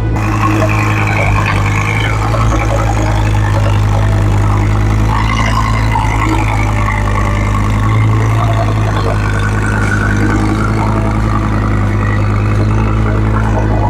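2014 Audi R8 V10 Plus's 5.2-litre V10 running steadily at idle on a cold start, with no revving.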